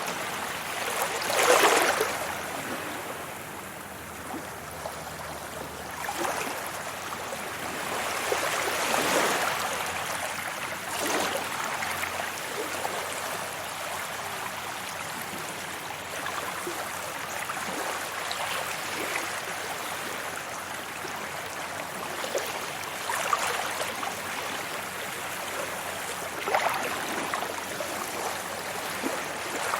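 Sea waves washing onto a beach: a continuous rush of surf with a swell of breaking water every few seconds, the loudest about a second and a half in.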